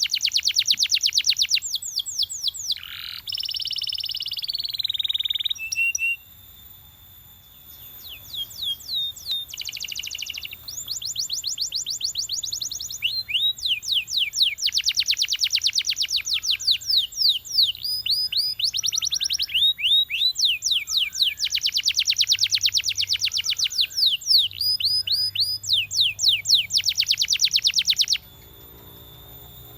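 Belgian canary singing in long, fast trills of rapidly repeated sweeping notes, with a short buzzy phrase a few seconds in and a brief lull around six seconds in. The song stops shortly before the end.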